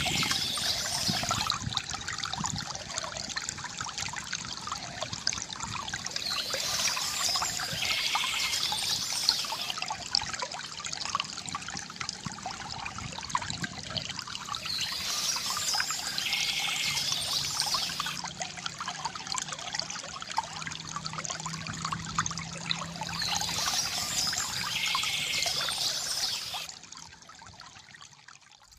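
Water trickling and splashing steadily from a bamboo fountain, with a brighter high burst, likely birdsong, recurring about every eight seconds; the sound drops away sharply near the end.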